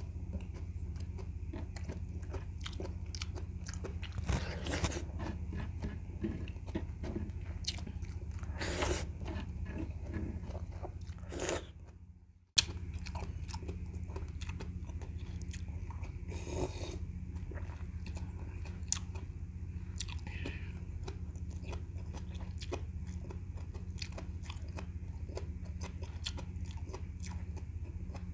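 Close-miked mukbang eating: wet chewing, smacking and clicking mouth noises as rice and vegetables from a sinigang soup are chewed, over a steady low hum. About twelve seconds in the sound drops out briefly and comes back with a sharp click.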